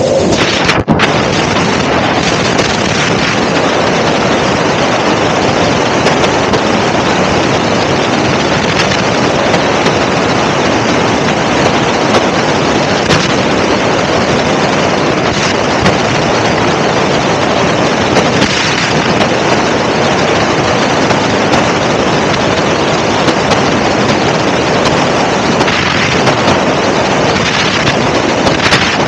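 Loud, steady helicopter noise in flight, with a brief drop about a second in.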